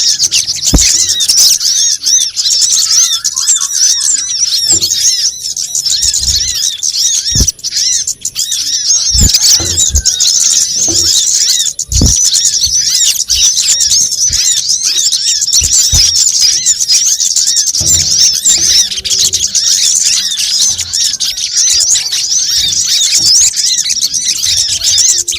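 Dense, continuous high-pitched twittering and chirping of small songbirds, a bird-lure recording of the kind played to attract sunbirds. A few short low thumps sound now and then under the chirping.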